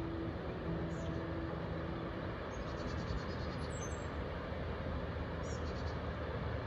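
Outdoor ambience: a steady rushing background with a faint low hum, and small birds giving short high chirps and quick trills several times.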